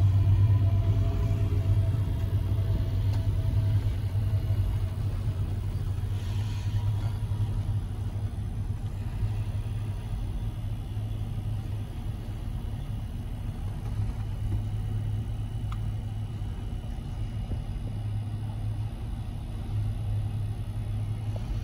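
Union Pacific autorack freight train rolling across a level crossing: a steady low rumble heard from inside a car, easing slightly as it goes on.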